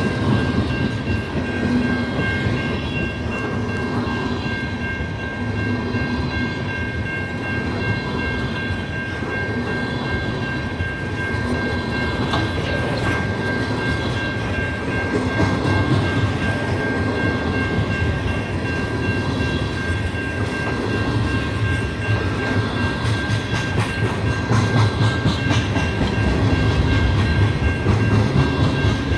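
Freight train cars rolling past, steel wheels clicking over the rail joints, with a steady high-pitched tone.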